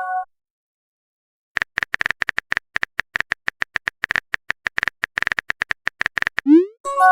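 Rapid phone-keyboard typing clicks, several a second, begin after a short pause, as in a chat message being typed. Near the end comes a short rising swoop, then a chime of several steady tones, the sound of a message popping up.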